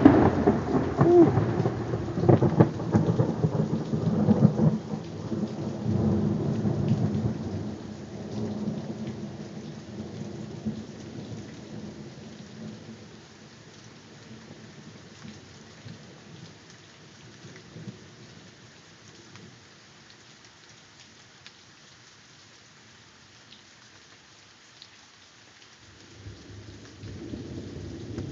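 Thunder cracking loudly at the start and rolling away in rumbles over about ten seconds, with rain falling throughout. A fresh rumble of thunder builds near the end.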